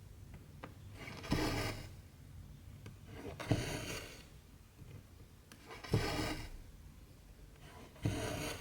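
Cotton embroidery thread pulled through 14-count cross-stitch fabric: four rubbing pulls about two seconds apart, each starting sharply and trailing off.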